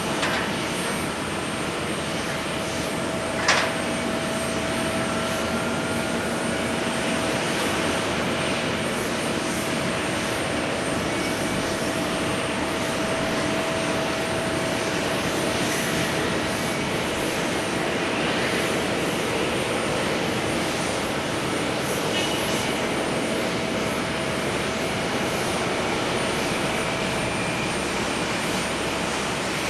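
Airliner jet engines of an Airbus A321neo running steadily, a continuous rush of noise with a steady whine over it. A single sharp click about three and a half seconds in.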